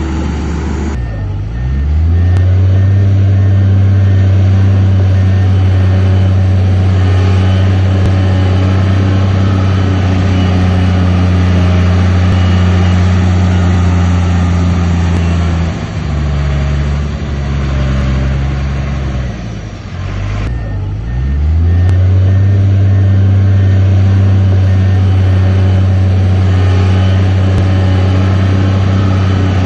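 Heavy diesel engine of an earthmoving machine running loud and steady under load. Its pitch sags and climbs back up about a second in and again about twenty seconds in, and a faint beeping sounds around those changes.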